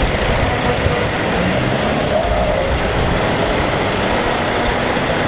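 Heavy trucks driving past: a steady, loud rumble of diesel engines and road noise.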